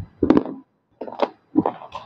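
Roasted multani mitti (Fuller's earth clay) being chewed close to the microphone: dry crunches in about three separate chews, with short silences between.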